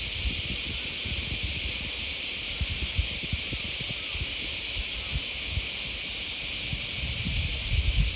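Steady high hiss of outdoor ambience along a walking path, with irregular low rumbling of wind on the microphone that grows a little stronger near the end.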